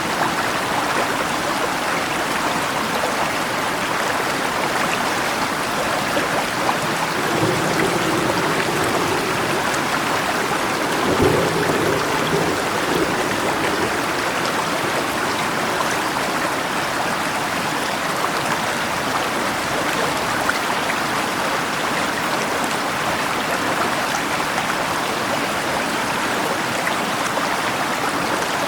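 Steady rushing of a river, an even water hiss with rain mixed in. About eleven seconds in there is a brief low thump.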